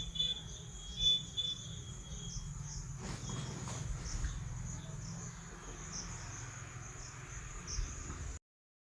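Insects chirping steadily, like crickets, over a low rumble, with a clearer high tone in the first couple of seconds; the sound cuts off suddenly near the end.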